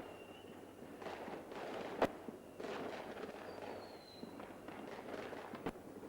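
Fireworks going off: a sharp bang about two seconds in and a smaller one near the end, over steady crackling, with a faint whistle in the middle.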